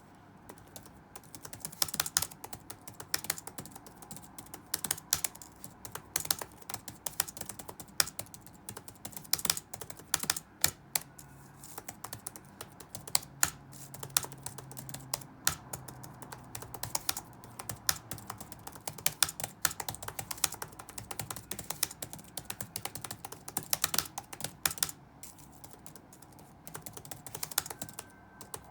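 Typing on a computer keyboard: quick runs of keystroke clicks in an uneven rhythm, broken by short pauses, over faint room noise.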